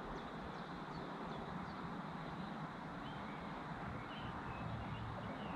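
Steady outdoor ambience with wind buffeting the microphone in a low, uneven rumble, and faint short high chirps of birds now and then.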